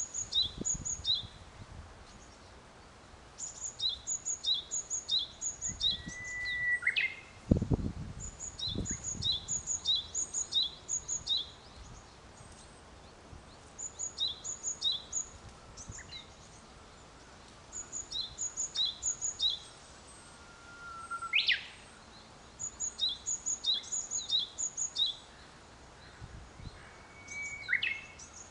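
Japanese tit singing: a two-note high-then-lower phrase repeated five or six times in a run, with the runs coming every few seconds. Another bird gives a short rising whistle now and then, and there are a couple of low rumbles about eight seconds in.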